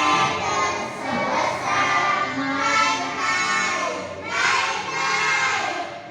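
A class of young children singing together in unison, loud and continuous, in phrases that swell and dip about once a second.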